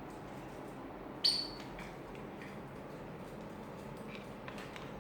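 Pet lovebird giving one sharp, high-pitched squawk about a second in, followed by a few faint short chirps.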